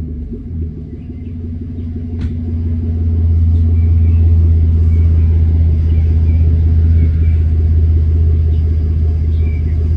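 Ford Explorer's naturally aspirated 3.5 V6 running at a steady idle through a catless straight-pipe exhaust with a Magnaflow muffler, a deep, even exhaust drone. It grows louder over the first few seconds, then holds steady.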